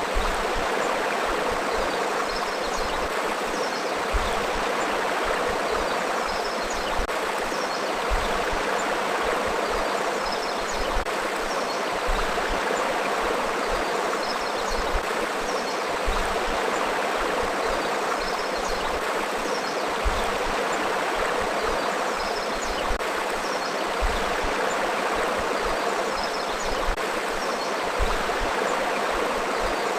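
A forest river flowing steadily, a constant rush of water, with faint high chirps now and then.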